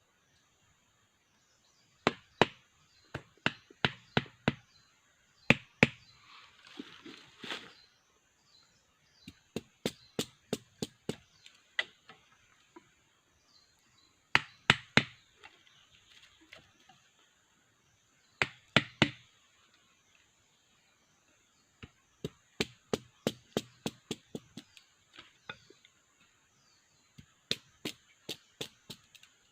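A blade chopping at wood in quick runs of sharp strikes, three to six at a time, with short pauses between the runs. About six seconds in there is a brief stretch of scraping.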